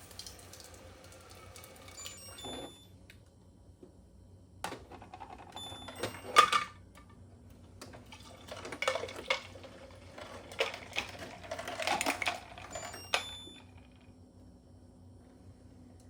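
Hard objects clattering and knocking in irregular bursts, the loudest about six seconds in, with a few brief high ringing tones among them.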